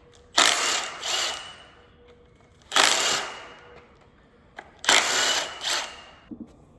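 Power tool running in three short bursts, each about a second long, backing bolts out of an LS engine's cylinder head.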